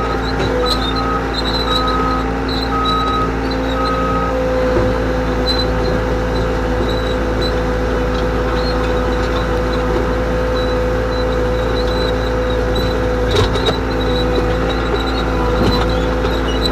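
Cat 248B skid steer's diesel engine running steadily after starting up. A short electronic beep repeats about twice a second for the first few seconds, then stops. Faint high chirps come and go over the engine.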